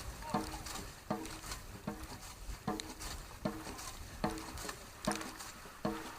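Dragon boat crew paddling at race pace: a regular knock with a short ringing tone and a splash on each stroke, a little faster than one a second.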